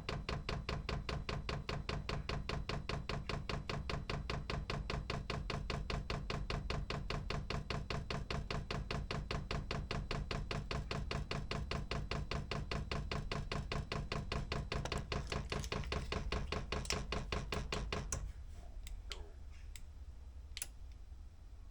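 Chinese 12 V diesel heater's fuel dosing pump ticking rapidly and evenly while being primed for its first use. The ticking stops abruptly about 18 seconds in, followed by a few faint clicks.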